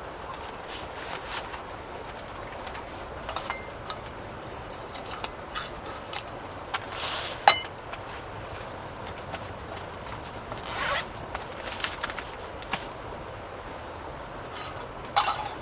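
Intermittent handling sounds: light clicks and taps with three short zip-like scrapes, the loudest near the end.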